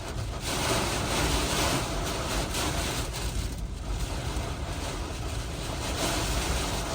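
Hurricane-force wind gusting, with noise across the whole range and wind buffeting the microphone; a strong gust swells about a second in and eases, and another builds near the end.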